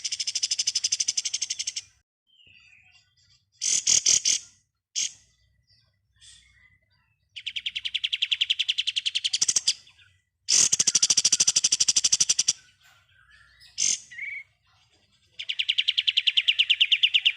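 Kapas tembak bulbul singing in 'ngebren' style: long, loud bursts of very rapid rattling notes, like a machine gun, each lasting about two seconds. The bursts repeat several times with short gaps, and a few brief single calls fall between them.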